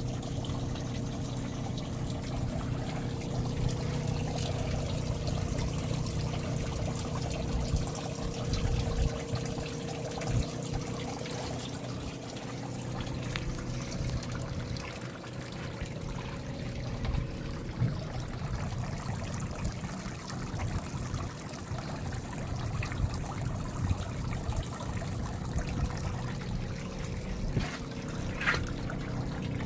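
Fresh water from a flushing pump running through a Yamaha F150 outboard and splashing out of its tell-tale outlet in a steady stream, over a steady low motor hum.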